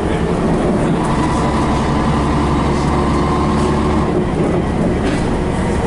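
Scania BR111H bus's diesel engine running under way, steady and loud, its note changing about four seconds in.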